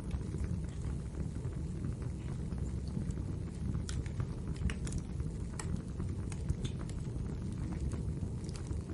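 Wood fire burning in a fireplace: a steady low rumble of flames with scattered sharp crackles and pops, a few louder ones around the middle.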